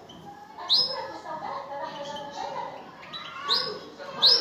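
European goldfinches and canaries singing together: a busy, unbroken twittering of short notes, cut through by loud, sharp rising calls, one about a second in and two near the end.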